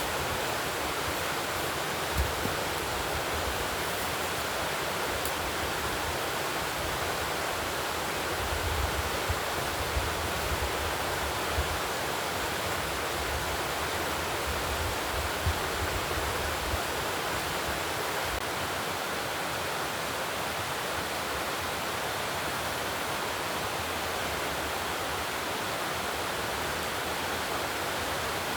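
Steady, even rushing noise with no pitch and no speech, with a few low bumps and brief knocks in the first half.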